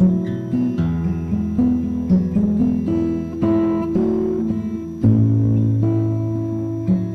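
Background music: acoustic guitar playing a plucked melody over a bass line.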